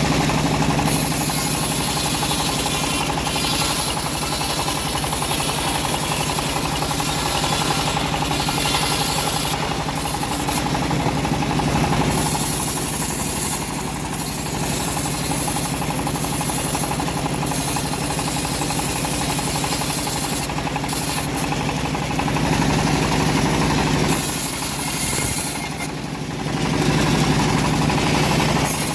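Engine of a homemade band sawmill running steadily under load while the band blade saws through old teak, a high hiss of the cut over the engine's low drone. The hiss drops out briefly a few times, and the whole sound dips for a couple of seconds near the end before picking up again.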